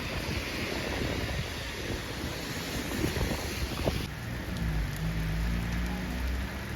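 Wind rushing and buffeting over the microphone. About four seconds in it cuts abruptly to a steadier low hum.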